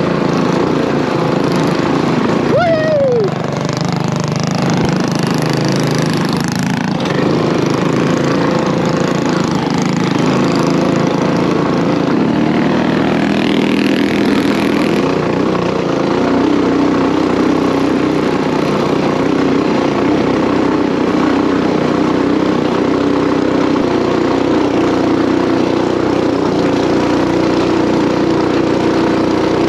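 Small single-cylinder mini bike engine running steadily near full throttle on a hard climb. A brief falling whistle-like tone comes about three seconds in.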